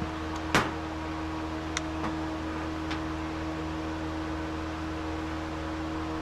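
Steady mechanical hum with a fixed drone, like a running fan, with one sharp click about half a second in and a few faint ticks after it.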